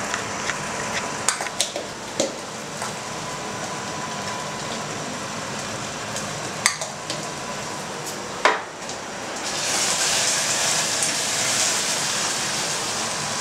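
Chopped pork brain and onions frying in pig fat in a stainless steel pot, with a steady sizzle. A wooden spoon stirs and a few sharp knocks and taps hit the pot. The sizzle grows louder and brighter about ten seconds in.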